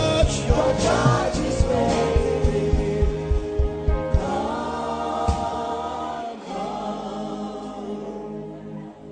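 Gospel worship music: voices singing together over a band with a steady drum beat. The beat stops about five seconds in, leaving held chords that fade.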